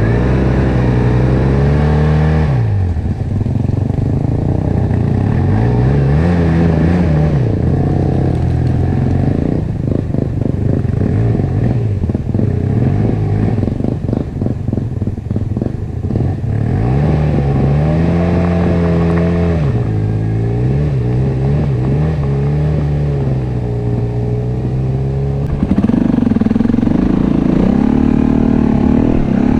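Enduro dirt bike engine revving up and down again and again as it is ridden on slippery ground, its pitch rising and falling with the throttle. A stretch of rapid clattering knocks runs through the middle.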